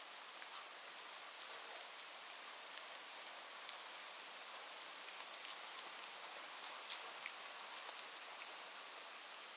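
Steady rain falling, an even hiss with scattered sharp drops ticking on a surface.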